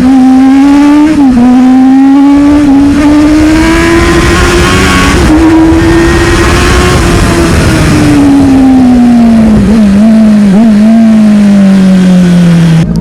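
Sport motorcycle engine heard from onboard while riding, its note climbing slowly for about the first six seconds and then falling away as the bike slows, with a few quick jumps in pitch near the end. Wind noise on the microphone swells in the middle.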